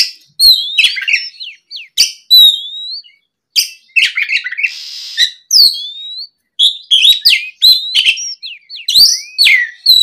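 Oriental magpie-robin in full song, loud phrases of rising and falling whistles and chirps with short gaps between them, and a harsh rasping note about halfway through.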